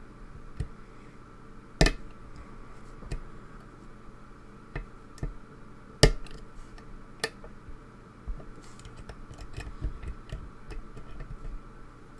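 Lock picks and a tension bar working in a lock's keyway: scattered small, irregular metal clicks and ticks, two of them sharply louder, about two seconds in and about six seconds in.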